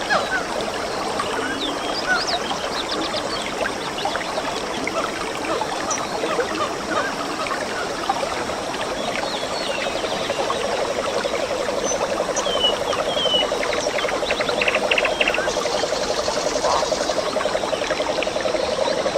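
Forest stream trickling and splashing, with scattered short bird chirps. About halfway through, a low, rapidly pulsing trill joins in and keeps going.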